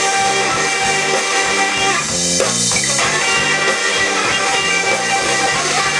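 A live rock cover band playing an instrumental passage led by electric guitar, with a bass line underneath.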